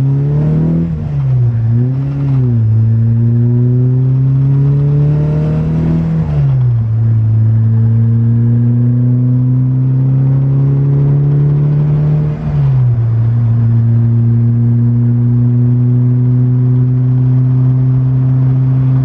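Built 2.1-litre 16-valve four-cylinder engine of a 1988 VW Cabriolet pulling hard through the gears. Its pitch climbs steadily and drops at upshifts about a second in, around six and a half seconds and around twelve and a half seconds, then climbs slowly again.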